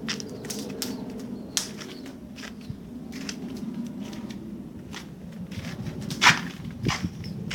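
Small wood campfire crackling, with scattered sharp pops and snaps, the loudest about six seconds in.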